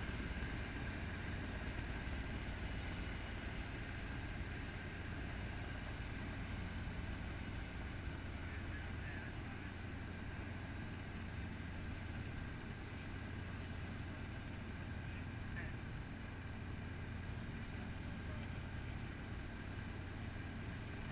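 Helicopter engine and rotor running steadily, a constant drone with a deep hum and steady higher tones.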